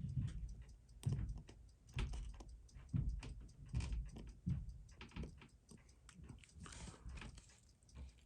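Small metal tools clicking and tapping against watch movement parts during disassembly of a Seiko 6139 chronograph movement, irregular light clicks with soft knocks on the bench about once a second.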